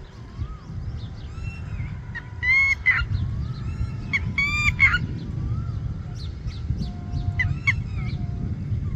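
Several birds calling and chirping, with short chirps and sliding whistles throughout and loud, harsh calls about two and a half and four and a half seconds in, and a shorter one near the end. A steady low rumble runs underneath.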